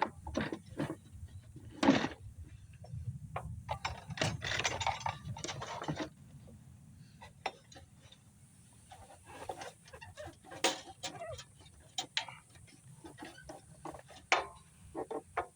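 Irregular clicks, taps and scraping of hand work on engine parts while an inline fuel filter is fitted into the fuel line.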